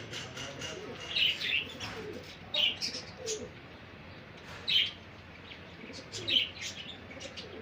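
Caged birds calling: about five loud, sharp, high chirps spaced a second or two apart, over softer, lower calls.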